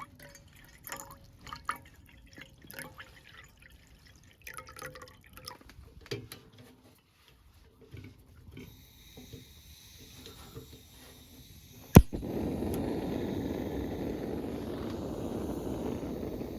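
Light clinks and knocks of camp cookware being handled, then a single sharp click about twelve seconds in, followed by a steady rushing sound of hot water being poured.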